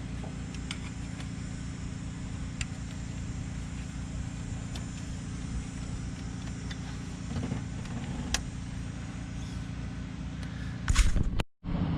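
A steady low mechanical hum, with scattered light clicks from hoses and linkages being reconnected on the engine. A brief louder noise comes near the end, then the sound cuts off suddenly for a moment.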